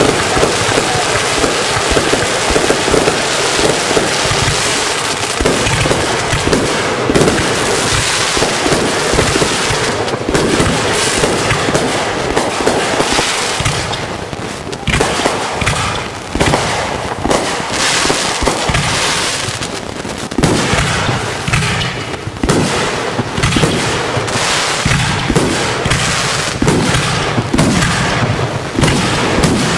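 Fireworks display of 3-inch aerial shells: launches and bursts in a near-continuous barrage of overlapping bangs, easing briefly about halfway through.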